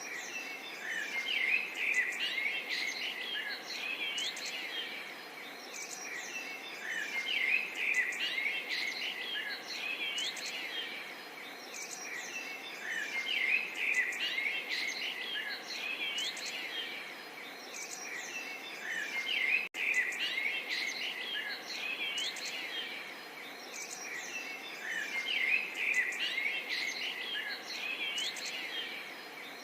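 A chorus of many small birds chirping and singing at once, short overlapping calls and whistles, over a soft background hiss of the natural surroundings. About two-thirds of the way through there is a split-second dropout, like a recording loop's join.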